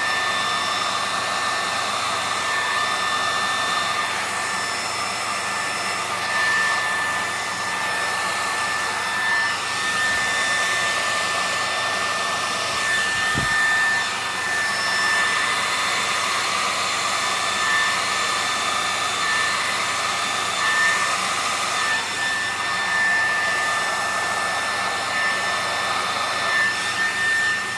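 Handheld hair dryer running steadily, blowing air across wet acrylic pour paint to spread it and form cells. A steady high whine sits over the rush of air.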